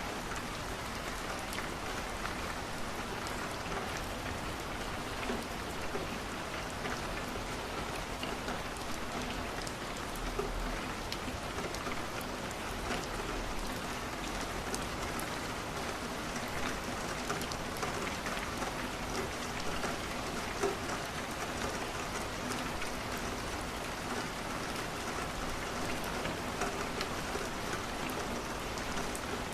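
Steady rain falling on a window, an even hiss with scattered sharp ticks of drops or crackles throughout.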